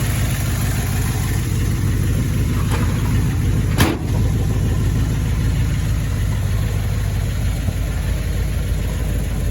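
Small-block Chevy 350 V8 with a mild cam and a Holley carburetor idling steadily in a 1948 Chevrolet 3100 pickup. One sharp click sounds about four seconds in.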